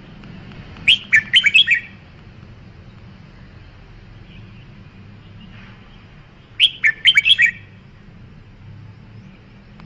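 Red-whiskered bulbul singing: two short phrases of quick, bright whistled notes, one about a second in and another about seven seconds in.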